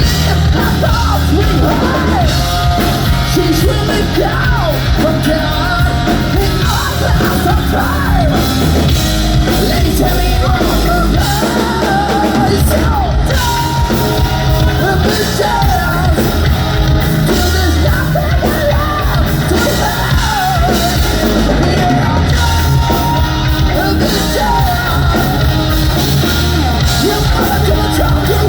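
Hard rock band playing live at full volume, with a singer's voice over loud amplified instruments and drums.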